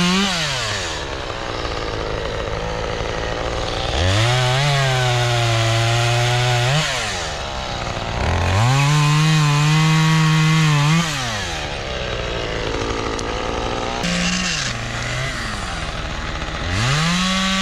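Two-stroke chainsaw, likely a Husqvarna, cutting storm-broken limbs. It is revved to full throttle and held for two to three seconds at a time, three times, with a short blip between. It drops back to idle after each cut, and the pitch sags a little under load during the cut a few seconds in.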